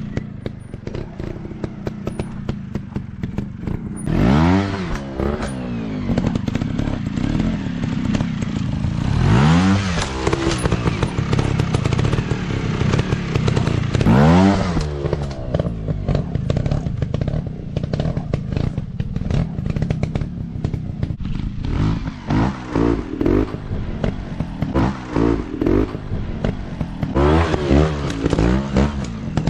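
Dirt bike engines running and being revved, with three long rev-ups and drops followed later by a series of quick throttle blips, over clattering and scraping from the bikes on rough ground.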